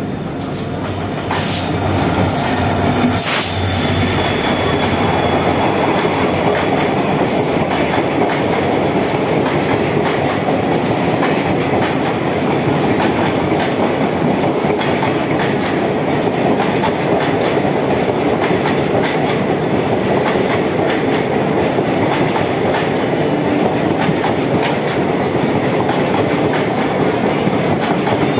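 A diesel-hauled passenger express passes close by. The diesel locomotive's low engine drone and a few sharp metallic clanks come in the first few seconds, then a long rake of coaches rolls past with a steady clatter of wheels over the rail joints.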